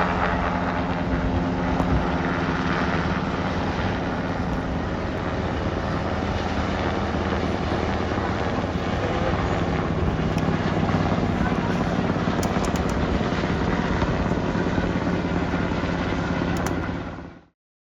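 Military helicopter running steadily: a continuous dense drone of rotor and engine with steady pitch. It cuts off suddenly near the end.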